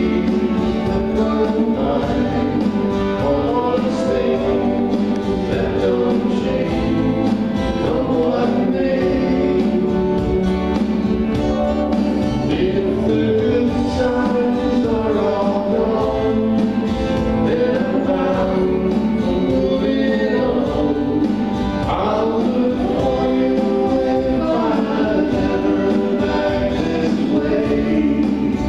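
A live band playing a slow folk song, with singing over the instruments.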